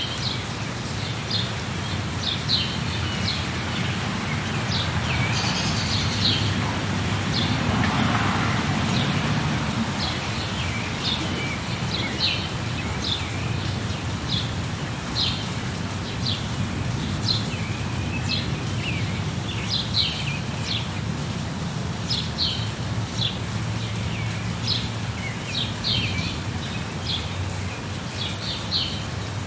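Small birds chirping in short, quick calls again and again over a steady hiss of rain, with a brief swell of louder noise about eight seconds in.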